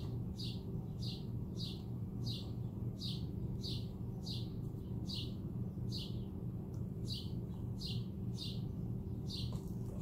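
A bird chirping over and over, each chirp a short falling note, about one and a half to two a second with a short break about seven seconds in. A steady low hum runs underneath.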